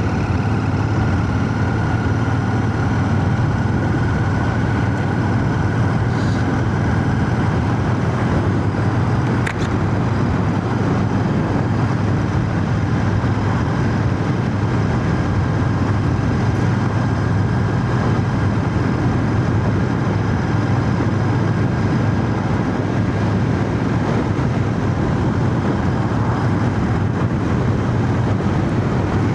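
Royal Enfield Shotgun 650 parallel-twin engine running at a steady road speed, with wind and road noise, heard from inside a full-face helmet; a single faint click about nine seconds in.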